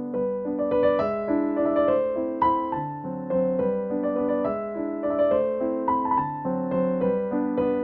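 Background music: a gentle piano piece playing a melody of many separate notes over sustained chords.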